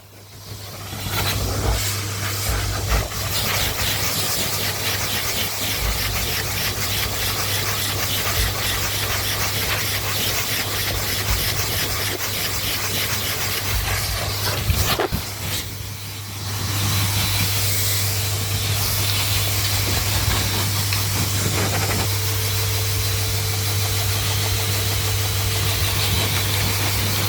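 Hair dryer running steadily: a blowing hiss over a low motor hum. It drops away briefly about fifteen seconds in and comes back up a second or so later.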